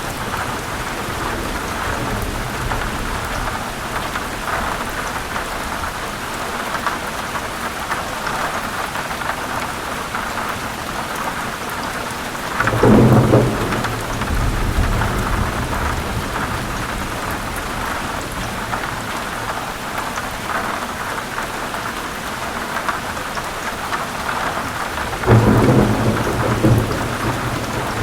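Heavy rain falling steadily, with rolling thunder swelling up about 13 seconds in and again near the end.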